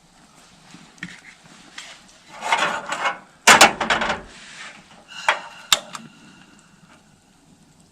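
Camp cooking gear being handled: a rustle, then a loud clatter about three and a half seconds in, followed by two sharp clicks.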